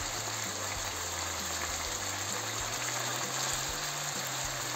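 Steady sizzling of chicken, carrots, peas and freshly added shredded cabbage frying in oil in a pan.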